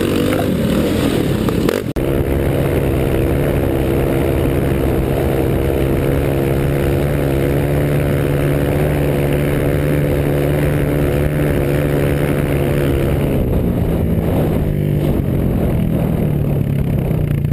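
Dirt bike engine running at a steady, even pitch, heard from on the bike with rushing wind noise. There is a brief break about two seconds in, and the engine note shifts lower and rougher near the end.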